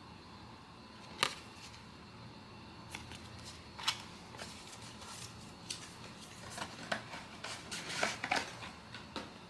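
Cardboard and paper packaging being handled, crinkling and clicking: a sharp crackle about a second in, another near four seconds, then a quick run of crinkles and taps in the second half.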